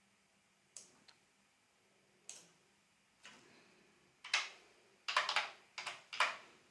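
Computer mouse and keyboard clicks: a few single clicks, then a quick run of keystrokes and clicks in the second half.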